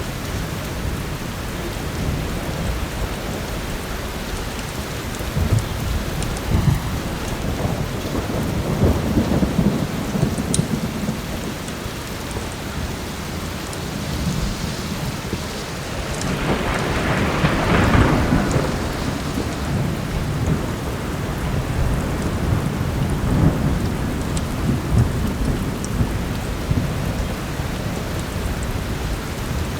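Heavy rain falling steadily with rolling thunder, including a longer, louder thunder roll just past the middle.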